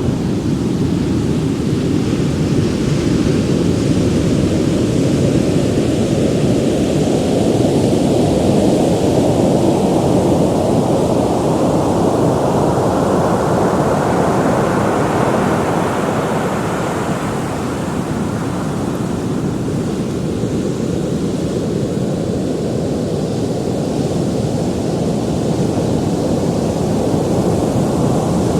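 Ocean surf: a continuous rush of breaking waves. It builds up through the first half, then eases off after about seventeen seconds.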